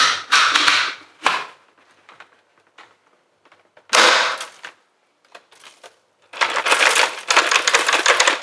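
Dyson V8 Motorhead's dust bin being emptied: plastic bin parts clacking and rattling as the debris drops out. It comes in three bursts, and the longest is a dense crackle over the last couple of seconds.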